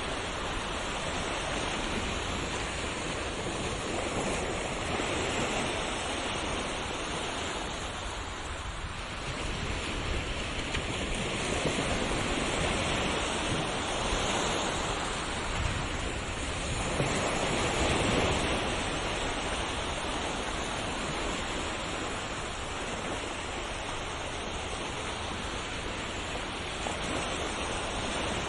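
Ocean waves washing onto a shore: a continuous rushing hiss that swells and eases in slow surges a few seconds apart.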